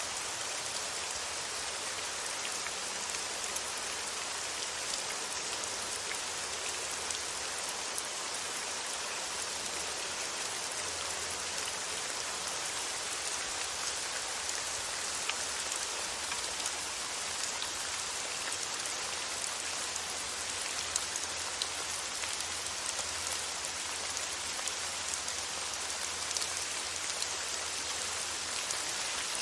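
Steady rain falling on a surface, an even patter with scattered individual drops.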